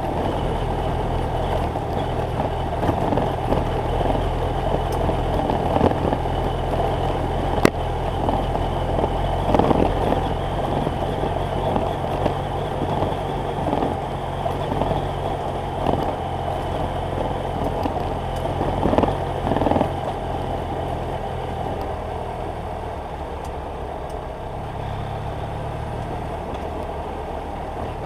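BMW F800GS Adventure's parallel-twin engine running steadily under way, with wind and road noise over it and a few sharp clicks. The engine note drops and quietens a little about three-quarters of the way through.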